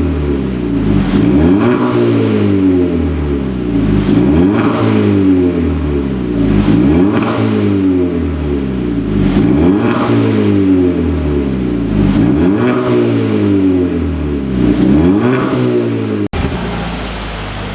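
Hyundai Veloster 1.6 GDI four-cylinder, fitted with a tuned variable-valve exhaust, free-revving over and over. Each blip rises and falls back, about every two and a half seconds. Near the end the sound cuts out for a moment, then settles to a steady idle.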